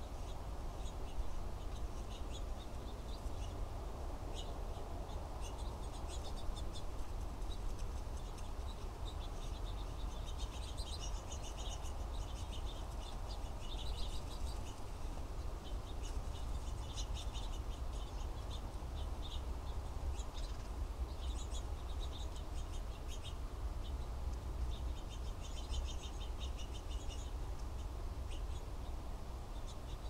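Small birds chirping and giving rapid chattering trills, coming in clusters, over a steady low rumble.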